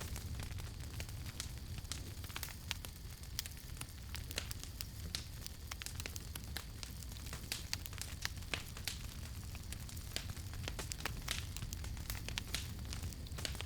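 Campfire crackling, with many small sharp pops at irregular intervals over a steady low rumble.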